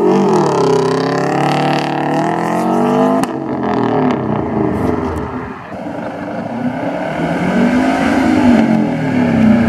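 Car engine revving: its pitch climbs for about three seconds, drops off sharply, then rises and falls again near the end.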